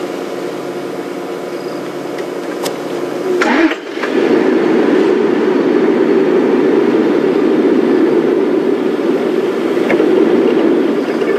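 Safari game-drive vehicle's engine running. About three and a half seconds in there is a brief knock, and after it the engine runs louder and rougher.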